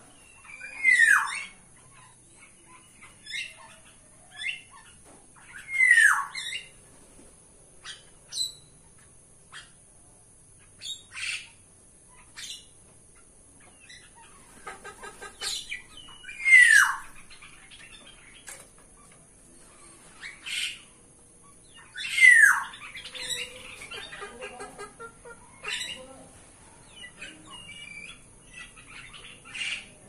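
Several caged birds calling: a loud whistle that slides downward in pitch comes four times, with short chirps, squawks and a quick run of short notes in between.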